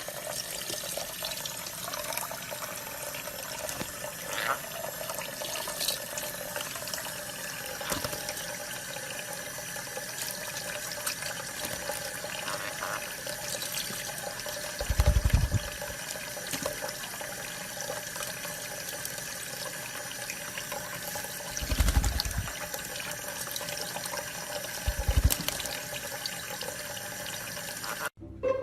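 Steady running water, like a tap left running, with three short dull low thumps in the second half.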